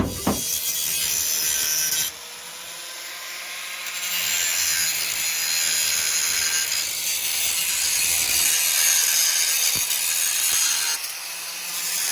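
Angle grinder cutting through car-body steel, a steady hissing grind that eases off about two seconds in and bears down again about two seconds later.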